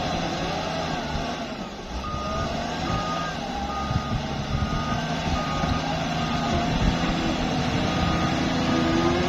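Heavy construction vehicle's reversing alarm beeping steadily, a little over one beep a second, starting about two seconds in, over the steady running of a diesel engine.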